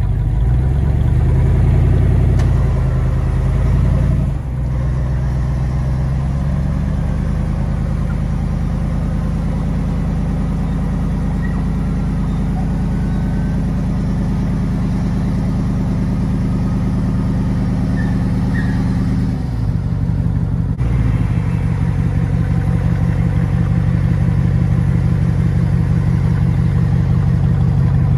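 Jeep Wrangler Rubicon 392's 6.4-litre HEMI V8, with an aftermarket exhaust, running at idle while the winch pulls the Jeep over the rocks. The engine is a little higher and louder for the first few seconds, then holds a steady idle, changing briefly about twenty seconds in.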